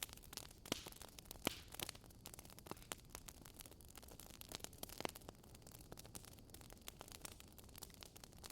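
Wood fire crackling faintly in a fireplace: irregular small snaps and pops over a soft hiss, with a few sharper pops about a second and a half in and again around five seconds.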